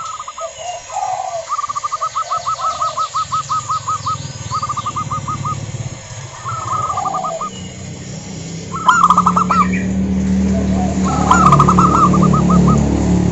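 Zebra doves calling: rapid trains of short, staccato cooing notes, repeated in bursts of several notes at a time, with faint chirps of other small birds. A low steady hum runs underneath, growing louder in the second half.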